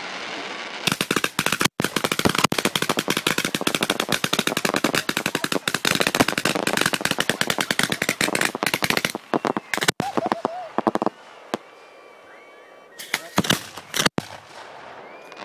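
Fireworks going off in a rapid volley: a dense string of quick sharp shots for about ten seconds, then it stops. A few louder bangs follow near the end.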